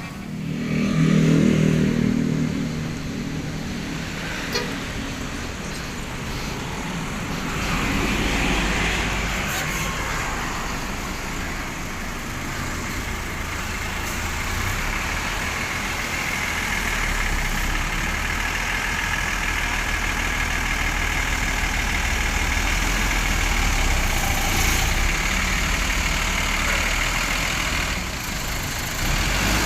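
Bus and other vehicle engines running with traffic noise, a steady low rumble throughout. It swells louder about a second in, and there is a short knock a few seconds later.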